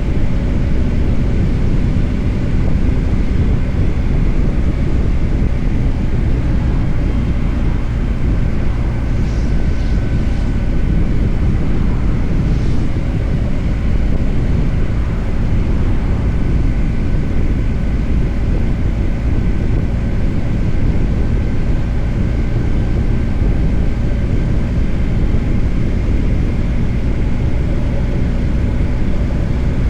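BMW R 1250 GS Adventure's boxer-twin engine running steadily under way, with wind rushing over the microphone.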